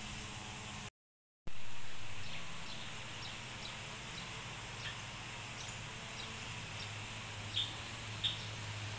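Small birds giving short, high chirps now and then, with two louder chirps near the end, over a steady low hum. The sound drops out completely for about half a second about a second in.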